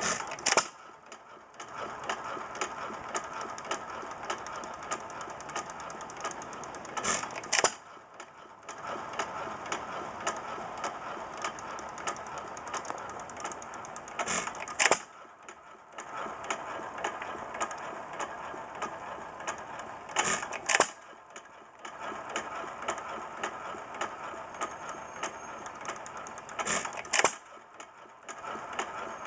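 Stover 2 hp Model K single-cylinder hit-and-miss gasoline engine running, with a steady rapid mechanical clatter while it coasts. A pair of loud firing bangs comes about every six and a half seconds, five times over.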